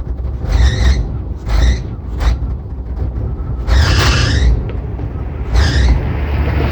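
Classic Cadillac engine running rough with a steady low rumble, surging irregularly about every second or two as it struggles after a hard start.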